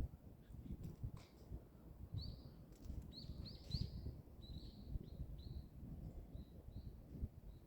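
A bird calling: a run of about ten short chirps, the first few loudest, growing fainter toward the end, over a low rumbling background noise.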